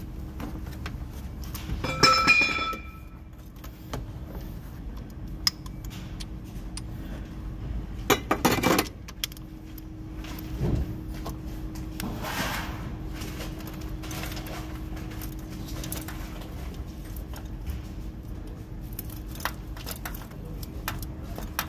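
Metal hand tools and engine parts clinking and rattling while a V8's valve cover is being taken off. There is a loud ringing clink about two seconds in, a short clatter around eight seconds, and scattered lighter clicks over a faint steady hum.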